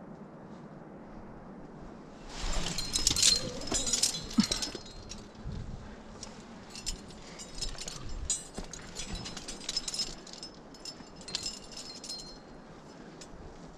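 Metal climbing hardware, carabiners and gear on a harness, jingling and clinking with the climber's movement, in a dense flurry from about two seconds in and then in scattered clinks.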